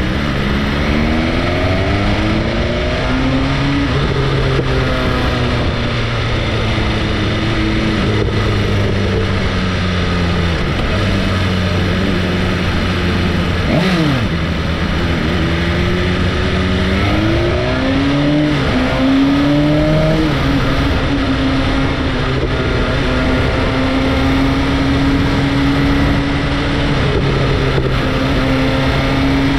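Sport motorcycle engine pulling through the gears: the revs climb and drop back several times in quick succession near the start, run lower through the middle, climb in steps again about two-thirds of the way in, then hold steady at cruising speed, over a constant rush of road noise.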